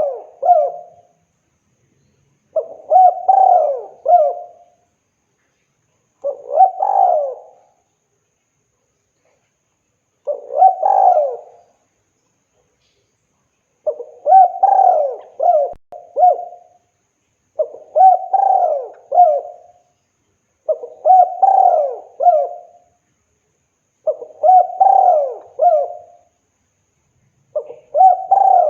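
Spotted dove (tekukur) cooing, a male calling for a female: a phrase of several coos repeated about every three to four seconds, with short silences between phrases.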